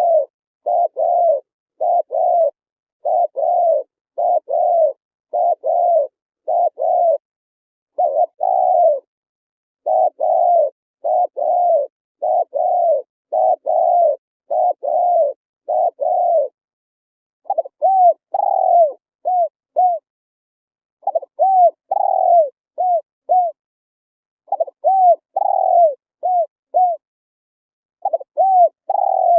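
Spotted dove cooing. First a fast run of about two arched coos a second. From about 17 seconds in it changes to phrases of two longer coos and two short ones, repeated every three to four seconds.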